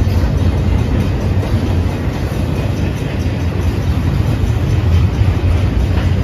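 Intermodal freight train's double-stack container cars rolling past: a steady, loud low rumble of wheels on the rails.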